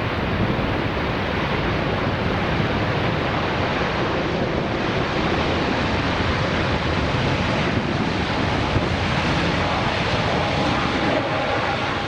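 Airbus A380 jet engines in a steady, loud roar as the airliner lands close by, with wind buffeting the microphone. A faint engine whine shows through about ten seconds in.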